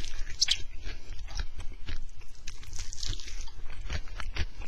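A person biting into and chewing a piece of deep-fried, bacon-wrapped chicken close to a headset microphone, with many small irregular clicks of the bite and the chewing.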